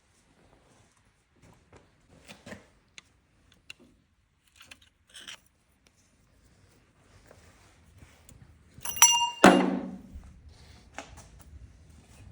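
Metal parts being handled: scattered small clicks and clinks, then a bright ringing metallic clink about nine seconds in, followed at once by a heavier thunk.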